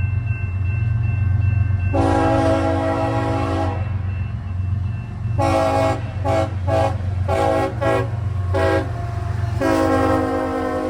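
Diesel freight locomotive sounding its multi-chime air horn over the steady rumble of its engine: one long blast, then a run of short toots, then another long blast near the end.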